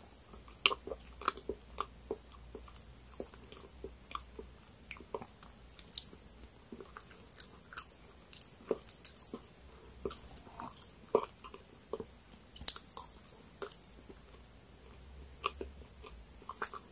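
A person chewing soft layer cake with the lips closed: irregular mouth clicks and smacks, a few a second.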